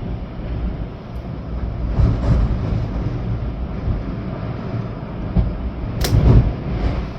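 Storm wind gusting through trees with rain, buffeting the microphone with a low rumble. It swells about two seconds in and most strongly near the end, where a sharp tap comes just as the biggest gust rises.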